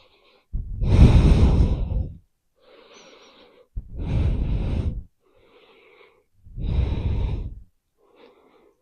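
A woman breathing heavily through a held forward fold: three loud out-breaths, each a second or so long and about three seconds apart, with fainter in-breaths between them.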